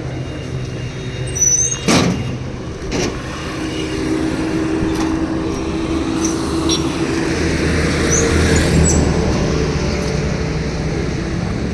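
A motor vehicle's engine running steadily, with two sharp knocks about two and three seconds in and a few short high chirps.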